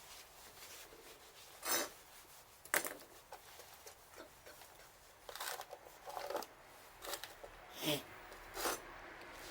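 A series of short, irregular rustling and crunching handling noises, about seven spread over a few seconds.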